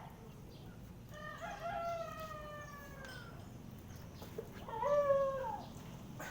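Two long, drawn-out bird calls, each sliding down in pitch at its end; the second, about four and a half seconds in, is the louder and shorter of the two.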